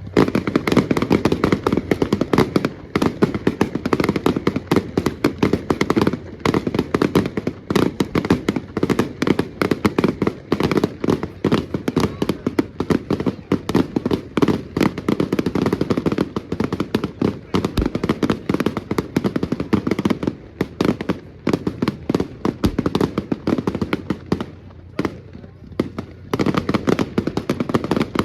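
Firecrackers going off in a dense, rapid string of sharp bangs, many a second, easing briefly near the end before picking up again.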